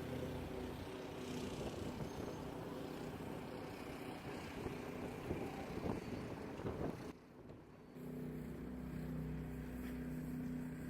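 Street traffic: vehicle engines running with a steady low hum over road noise, which drops out briefly about seven seconds in.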